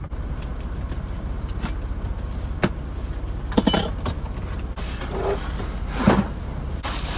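Low, steady rumble of an idling semi truck inside the cab, with several separate knocks and clicks of things being handled.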